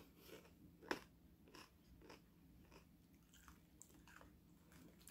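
A person chewing a crunchy snack mix of nuts and little cracker balls with the mouth close to the microphone: faint, irregular crunches about every half to two-thirds of a second, the loudest about a second in.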